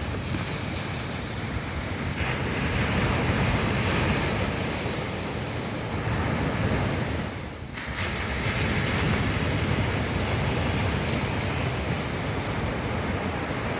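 Ocean surf washing onto a beach, with wind blowing on the microphone. The wash swells and eases, dropping off briefly about two-thirds of the way through.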